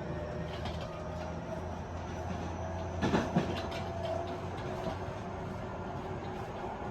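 Tobu 50090 series electric train heard from inside a motor car while running: a steady rumble of wheels on rail with a faint steady motor hum. About three seconds in there is a short burst of clatter.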